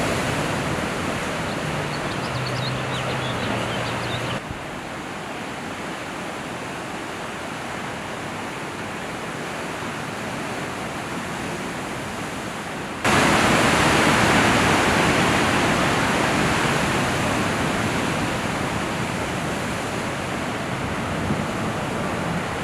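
Steady rushing noise of wind and ocean water on a surfer's point-of-view camera microphone. It drops abruptly about four seconds in and jumps back louder a little past halfway, where the footage cuts.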